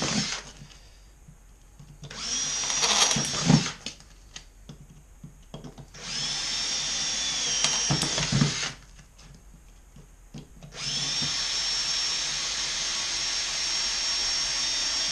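Cordless battery drill drilling out the rivets of a motorcycle exhaust race can, running in three bursts of a steady whine with pauses between, the last one the longest.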